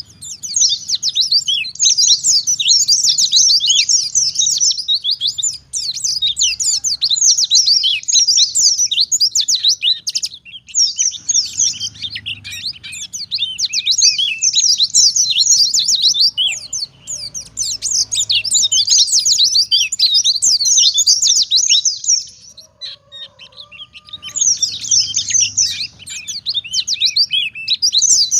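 White-eye (pleci) singing a fast, high, chattering song in long unbroken phrases, pausing briefly about ten seconds in and again for a couple of seconds near the end.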